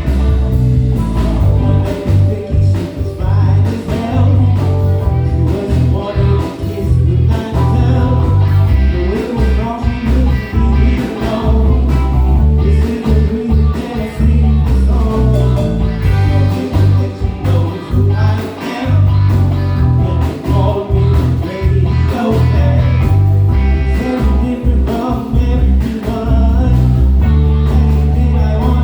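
Live band playing a groove: a heavy bass line and drums underneath, with keys and a melodic lead line on top.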